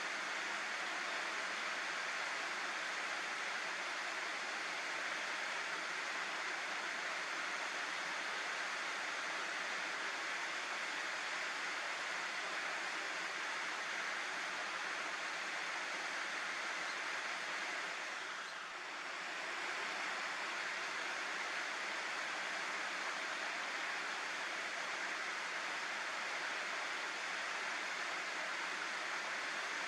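Water rushing steadily over a river weir, an even rushing noise with a brief slight dip in level about two-thirds of the way through.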